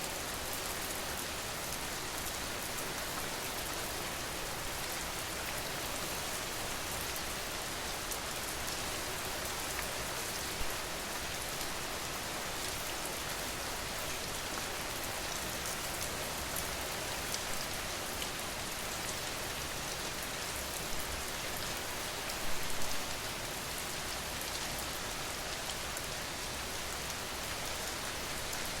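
Steady rain falling on a surface, an even hiss with the patter of individual drops, and a few slightly louder splashes about two-thirds of the way through.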